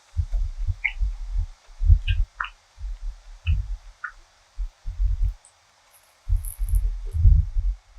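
A person chewing potato bread close to the microphone: rounds of low, soft thuds, with a few small mouth clicks.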